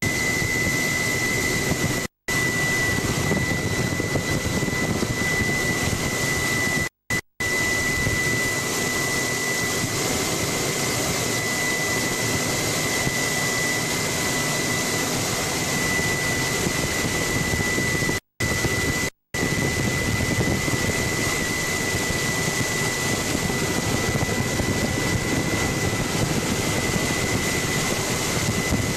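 Helicopter engine and rotor noise heard from aboard: a steady loud rush with a constant high turbine whine. The sound cuts out completely for split seconds several times.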